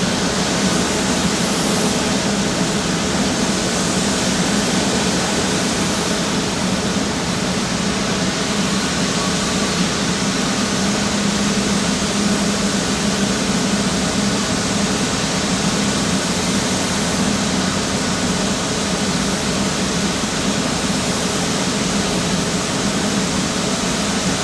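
Airbus A350-900's Rolls-Royce Trent XWB turbofan running steadily, a constant rushing noise with a faint low hum and thin whine.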